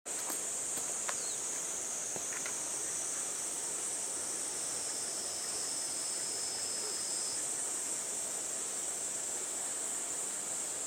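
Steady high-pitched chorus of insects calling, with a second, slightly lower insect tone that stops about seven seconds in.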